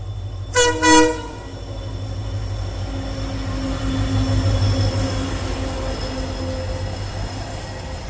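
Freight train locomotive sounding two short horn blasts, followed by the steady rumble and hum of the train running through.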